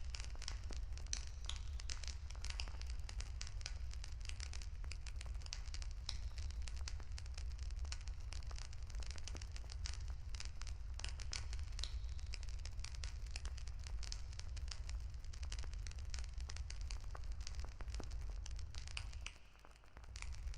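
Wood fire crackling, with frequent small sharp pops and snaps over a steady low rumble that drops away briefly near the end.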